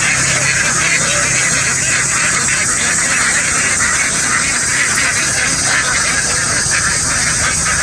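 A very large flock of domestic ducks quacking all at once, a dense, steady chorus with no single call standing out.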